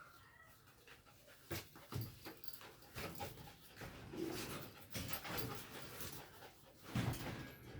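Belgian Malinois panting hard during rough play, with irregular scuffling bursts and a brief whine about four seconds in.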